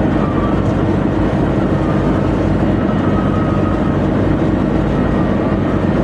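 Tugboat machinery, most likely its diesel engines, running with a loud, steady low drone and a faint wavering whine above it.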